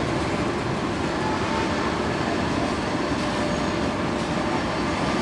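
Union Pacific diesel locomotive, working as distributed power in a loaded train, passing at steady speed: engine running and steel wheels rolling on the rails in an even, continuous rumble.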